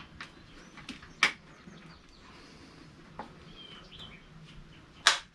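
Scattered sharp clicks and knocks, the loudest about a second in and again near the end, with faint bird chirps.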